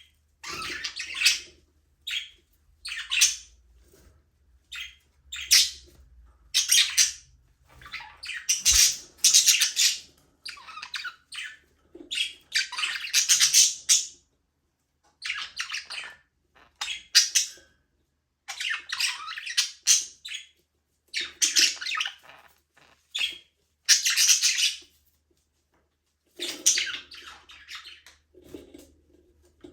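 Budgerigars chattering and chirping in bursts of half a second to two seconds, one after another with short pauses between.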